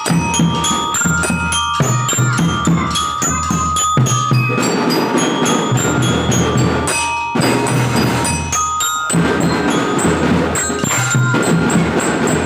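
Children's drum band playing a march: a glockenspiel melody over bass and snare drums keeping a steady beat.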